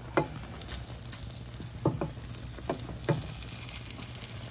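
Beaten egg and tofu slices frying in an oiled pan, a steady sizzle, with about six short taps as a spatula works at the edge of the setting egg.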